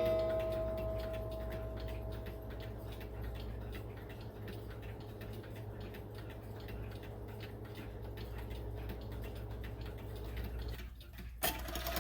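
Seth Thomas beehive mantel clock ticking steadily, while the ring of its last strike fades away over the first few seconds. The ticking breaks off at an edit near the end.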